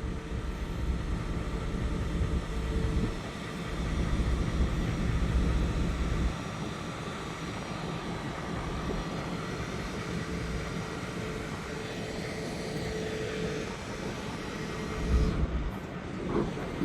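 Diesel engine of locomotive P20 running at low throttle, a steady deep hum whose low rumble swells twice in the first six seconds and again near the end.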